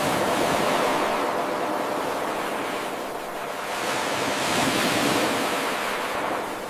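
Ocean waves breaking and washing up the shore: a steady rush of surf that swells twice and eases between, about three seconds in and again near the end.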